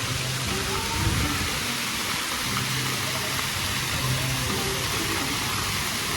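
A steady rushing hiss with faint voices underneath and a soft low thump about a second in.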